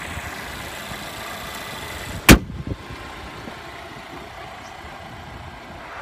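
2016 Volvo XC90 T6's 2-litre supercharged and turbocharged inline four-cylinder idling steadily, with one sharp slam a little over two seconds in, the loudest sound.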